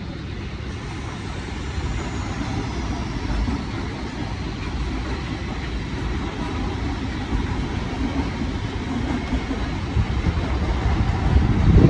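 Mumbai suburban electric local trains running, a steady rumble of wheels on the rails as another local passes on the adjacent track, growing louder toward the end.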